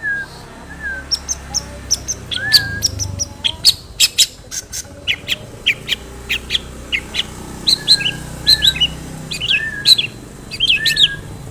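Long-tailed shrike (cendet) singing: a rapid run of sharp, high chirps and clicking notes, mixed with a few softer, lower whistled notes.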